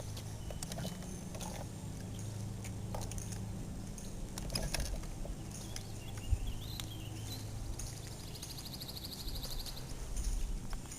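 Outdoor ambience with a few short bird chirps and a buzzy, rapidly pulsed trill near the end, over a steady low hum and scattered light clicks.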